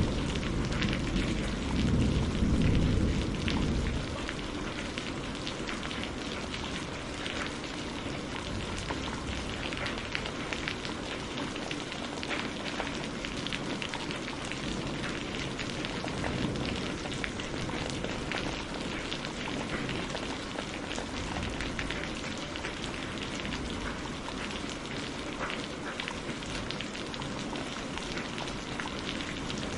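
Steady rain falling, with the crackle of burning firewood mixed in. A low rumble dies away about four seconds in.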